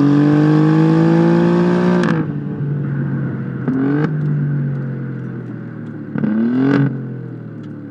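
Alfa Romeo Giulia Quadrifoglio's twin-turbo 2.9-litre V6 exhaust under hard acceleration, the note climbing slowly, then lifting off abruptly about two seconds in. Two short throttle blips follow, around four and six and a half seconds in, as the sound fades away.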